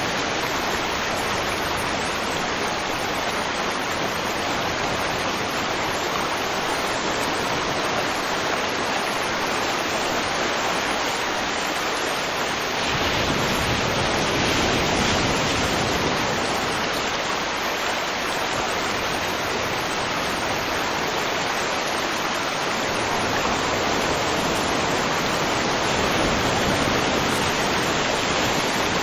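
River water flowing fast, a steady dense rush that swells a little about halfway through.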